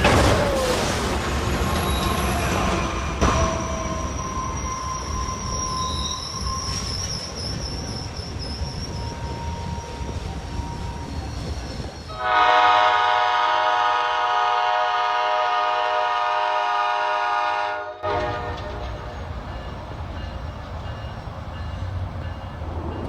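Train running along the track with faint high squeals from the wheels, then one long horn blast of about six seconds about halfway through that starts and stops abruptly.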